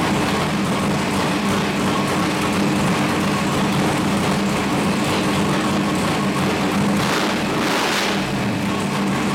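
502 cubic-inch big-block Chevrolet V8 racing engine running at a steady speed on an engine dyno, with a brief rush of hiss about seven seconds in.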